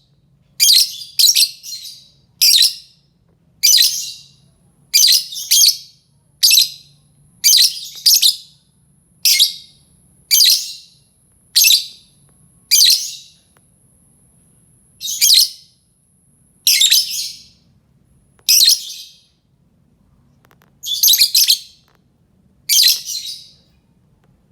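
Lovebird calling: short, shrill, high-pitched calls repeated about once a second, some coming in quick pairs, with a few brief gaps.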